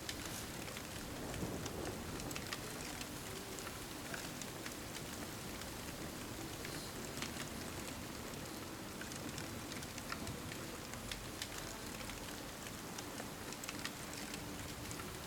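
Steady rain with scattered small crackles from a wood fire.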